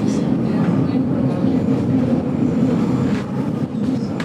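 Rail carriage of the GoldenPass Belle Époque train running along the track, heard from inside: a steady low rumble with a few faint high ticks and squeaks.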